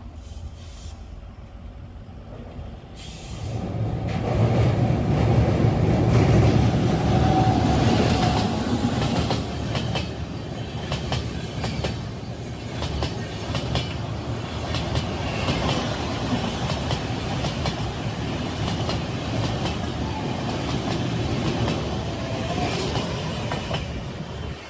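Express passenger train passing close by at speed: the locomotive's rumble rises sharply about three seconds in and is loudest for several seconds, then gives way to a steady clatter and rattle of coach wheels over the rail joints.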